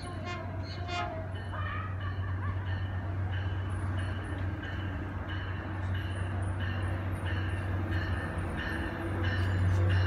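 Caltrain diesel locomotive approaching a station, its engine hum building steadily as it nears. A bell dings about twice a second from about two seconds in, after a brief high tone in the first second.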